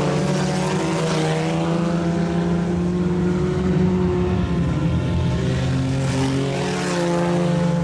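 Several IMCA Sport Compact race cars running hard at once, their engines overlapping. The engine note sags about halfway through and then climbs again.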